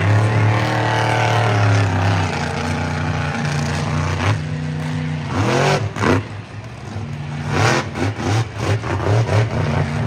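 Monster truck engine revving. It holds a steady pitch for the first few seconds, then is blipped in quick rising-and-falling surges through the second half.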